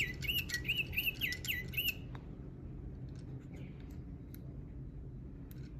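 A small bird chirping: a quick string of repeated rising-and-falling high chirps, about three a second, that stops about two seconds in. After that there is only a low steady hum and a few faint clicks.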